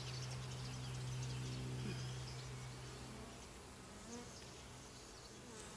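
Honeybees buzzing around an open hive as its frames are lifted out for inspection: a steady, even hum.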